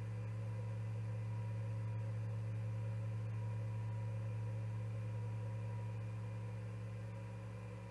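Steady electrical hum: a low drone with fainter higher tones above it, unchanging throughout, with no bird calls.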